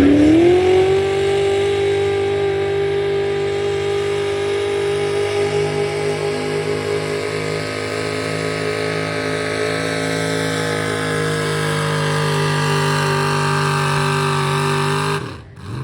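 Pulling truck's engine held at full throttle under heavy load as it drags the sled, its revs climbing at the start and then holding nearly steady. The engine sound cuts off abruptly near the end.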